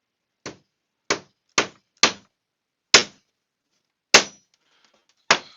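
Seven sharp knocks at uneven intervals, each dying away quickly; the first is quieter than the rest.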